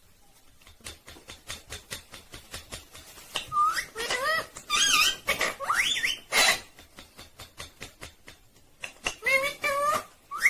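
Indian ringneck parrot making a run of quick clicks, then harsh warbling squawks that waver up and down in pitch in the middle, and another warbling call near the end.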